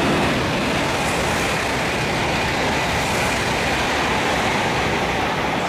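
N700-series Shinkansen train passing through a station at full speed without stopping: a loud, steady rushing roar of wheels, air and running gear that eases slightly near the end.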